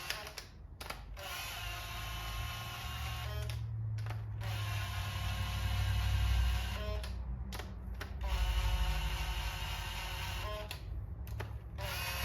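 Electric power drill running in several bursts of two to three seconds each, with short pauses between, driving fasteners during engine assembly.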